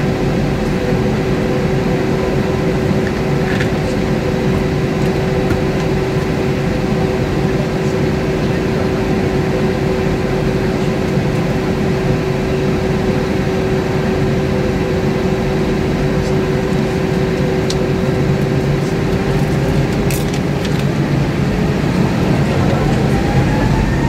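Airbus A320-232's IAE V2500 turbofan engines heard from inside the cabin: a steady hum and rushing noise with a constant tone, then a whine that rises in pitch near the end as the engines spool up.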